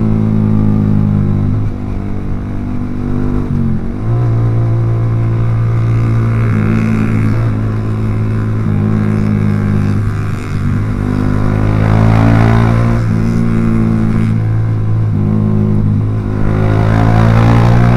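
Yamaha R15 V3's 155 cc single-cylinder engine running through a Proliner aftermarket exhaust while under way, loud and steady. The note holds for stretches and dips briefly about four times as the throttle eases and comes back on.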